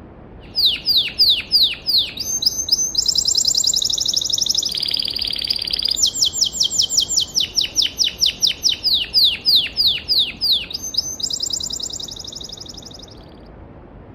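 A songbird singing one long, varied song: runs of quick down-slurred whistles, about four a second, alternating with fast high trills, fading out near the end. A faint steady rush of a flowing stream runs beneath it.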